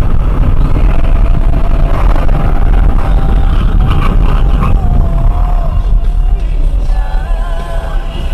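Steady low road and engine rumble inside a moving car's cabin, with music from the car radio over it: a wavering sung or played melody line runs through the middle.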